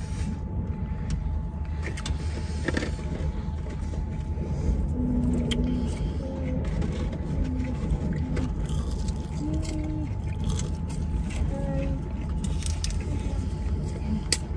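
Steady low rumble inside a stationary vehicle's cabin with the engine idling, under scattered small clicks and rustles as food is handled and eaten.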